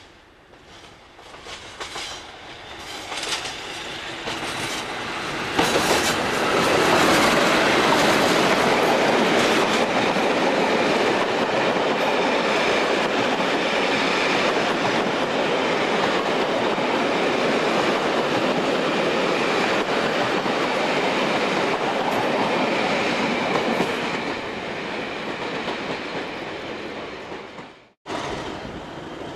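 A Class 50 diesel-hauled passenger train rolling in: wheels clicking over rail joints and pointwork as it nears, building to a loud steady rumble as the coaches pass close by, with a high steady wheel squeal over it. The sound cuts off abruptly near the end.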